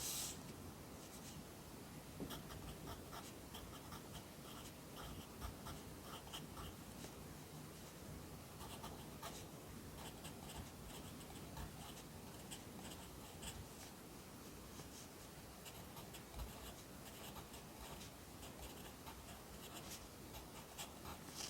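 Pencil writing Korean characters by hand on paper: a quiet, continuous run of short strokes across the paper.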